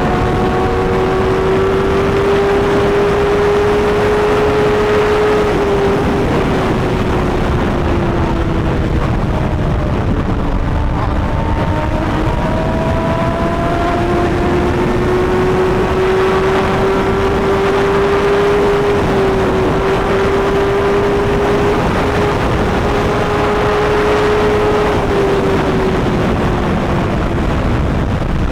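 BMW S1000RR's inline-four engine running at highway speed with heavy wind rush. The engine drone eases off about six seconds in, picks back up around fourteen seconds, and drops off again near the end.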